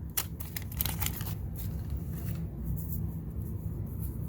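Stiff cardboard Garbage Pail Kids sticker cards being handled and shuffled by hand: a quick run of papery clicks and flicks in the first second and a half, then only a steady low hum.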